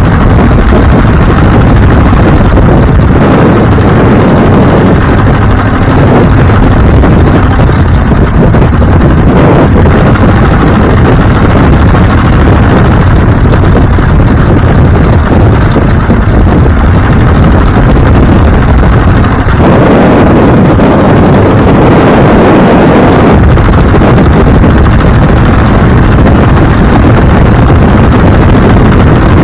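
A vehicle on the move, with heavy wind buffeting on the microphone over engine and road noise. The sound shifts about two-thirds of the way in.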